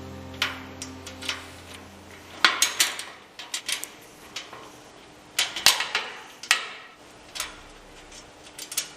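Small metal tools and hardware clinking and tapping against metal, in irregular clusters of sharp clicks. Background music runs through the first two seconds or so and then stops.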